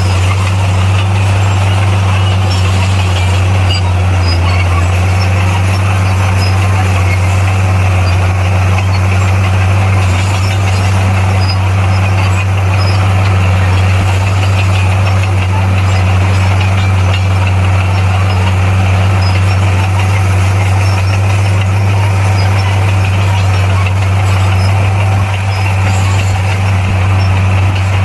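Bulldozer's diesel engine running steadily with a constant low drone, no change in speed.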